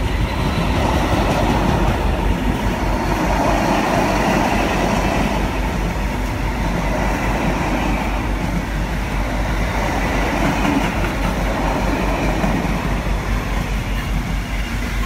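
A freight train of bogie covered steel-coil wagons rolling past at close range: a steady, loud rumble of wheels on rails.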